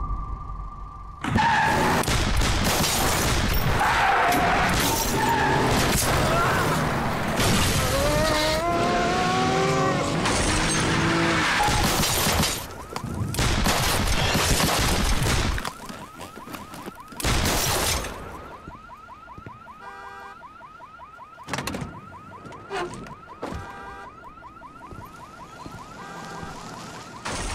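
A violent car ambush: repeated loud bangs and shattering car window glass, with squealing glides in the middle. About sixteen seconds in, the din drops away to a car alarm sounding in a fast, evenly repeating pattern, broken by a few single loud bangs.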